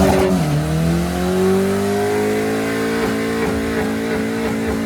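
A car engine being revved hard: a quick blip that drops back at the start, then the pitch climbs for a couple of seconds and is held high, stuttering briefly a few times near the end.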